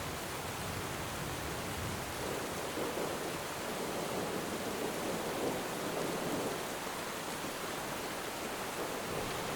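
Steady, dense rainfall, an even hiss with no distinct drops or other events.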